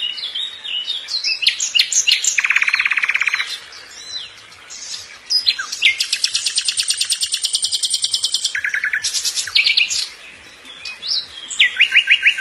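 A songbird singing a long, varied song of high chirps and whistles broken by rapid buzzy trills, one lasting over two seconds, and a quick series of repeated notes near the end.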